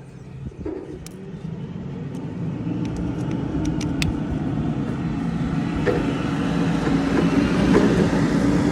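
A motor vehicle engine running with a steady low hum that grows steadily louder, with a few light clicks early on.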